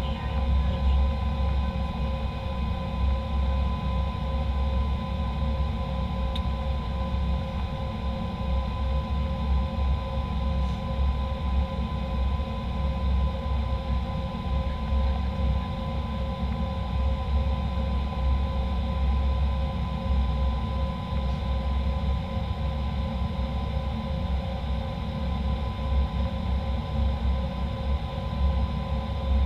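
Airliner cabin noise: a steady low rumble with a constant engine whine in two steady tones.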